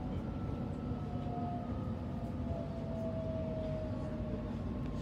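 Steady rumble of an electric passenger train carriage running on the rails, heard from inside the car. A faint motor whine slowly falls in pitch over it.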